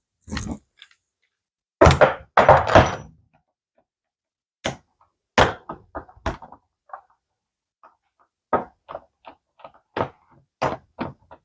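Hard plastic and metal RC truck parts and a tool knocked and set down on a workbench during disassembly: a few loud thunks about two seconds in, then a scattering of lighter clicks and knocks.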